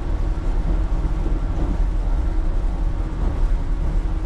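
Cabin noise inside a moving local passenger train: a steady low rumble of the wheels running on the rails.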